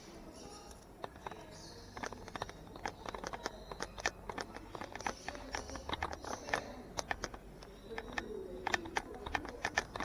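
Exhibited caged birds: a dense, uneven run of short sharp clicks and chips, with a low wavering coo near the end.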